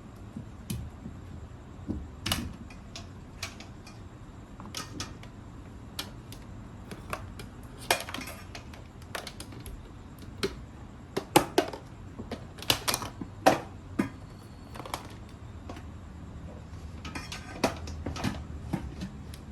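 Irregular clinks, taps and knocks of kitchen utensils against dishes and cookware, some in quick little clusters.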